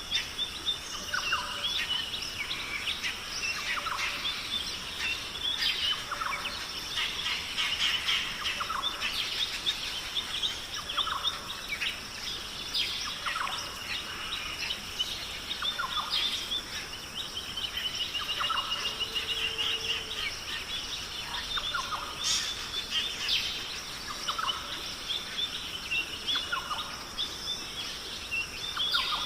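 Many wild birds chirping and calling, one call repeating about every two seconds, over a steady high-pitched hum.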